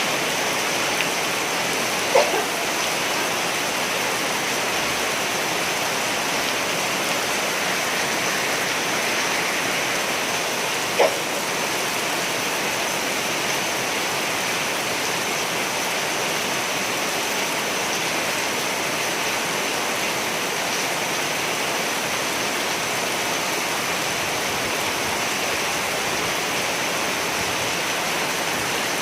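Steady rain, falling without let-up, with two brief sharp sounds about 2 and 11 seconds in.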